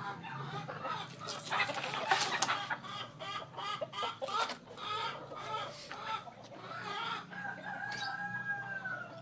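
Animal calls: a quick run of short pitched calls, then one long held call near the end that falls slightly in pitch before stopping.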